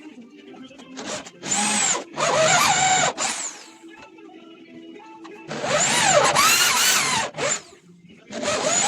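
Power drill running in short bursts, three in a row with a fourth starting near the end, its motor whine rising and falling in pitch with each burst.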